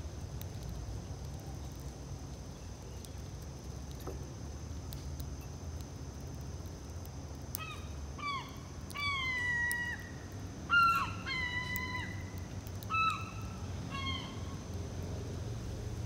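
A bird gives a series of about eight short calls, each falling in pitch, with one drawn out for about a second, over a low steady rumble.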